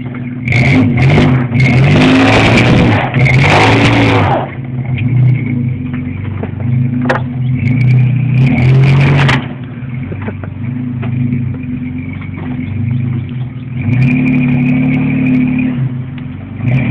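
Truck engine revving hard again and again as the truck strains against a pole to bring it down. The pitch rises and falls, and two long stretches of loud rushing, crackling noise come during the hardest revving, with a few sharp cracks in between.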